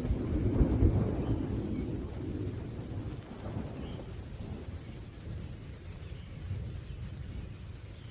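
Rolling thunder rumbling low over steady rain, loudest in the first second or two and slowly fading away.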